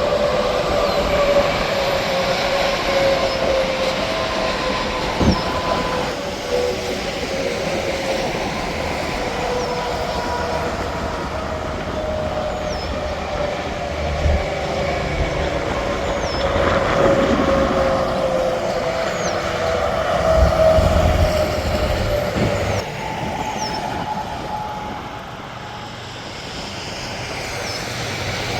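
Interstate traffic with semi trucks passing at speed: continuous tyre and engine noise carrying a steady whine that drifts slowly in pitch, easing off for a few seconds near the end.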